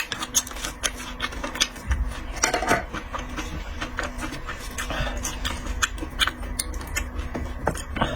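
Close-miked eating sounds of seafood: quick irregular clicks and wet smacks of chewing and sucking meat from shells, with a louder slurp about two and a half seconds in, over a faint steady hum.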